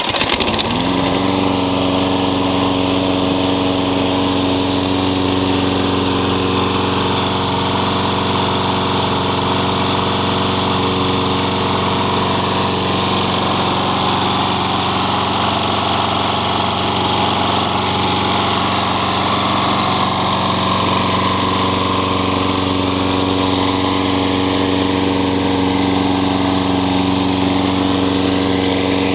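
A Troy-Bilt 21-inch push mower's Briggs & Stratton flathead (L-head) engine catches and comes up to speed within the first second, then runs steadily at full speed. The engine had not been started in a while and sounds pretty good.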